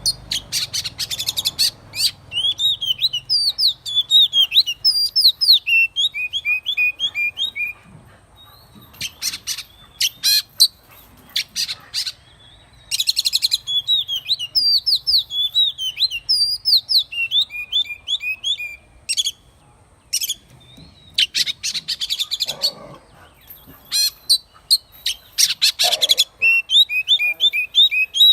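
Oriental magpie-robin singing: phrases of quick, sliding whistled notes broken several times by short, harsh rattles, with brief pauses between phrases.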